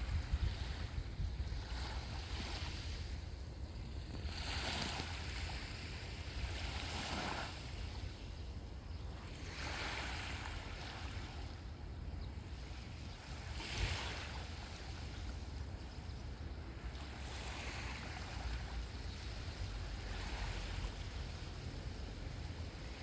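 Sea waves breaking and washing onto the shore, swelling every few seconds, with a steady low rumble of wind on the microphone.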